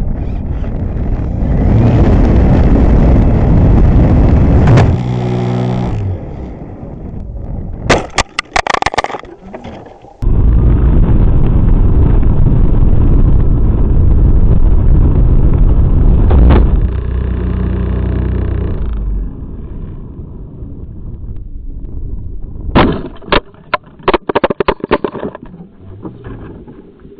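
Loud rushing wind and the electric motor of an E-flite Apprentice 15e RC plane, picked up by its on-board keychain camera, broken twice by clusters of sharp cracks and knocks.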